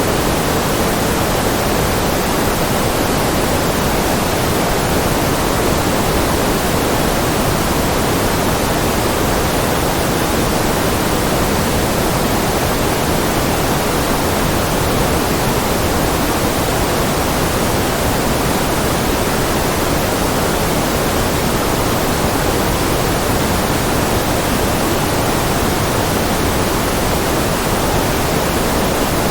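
Generated white-noise track: a steady, unchanging rush of noise, fuller in the low and middle range than in the high hiss.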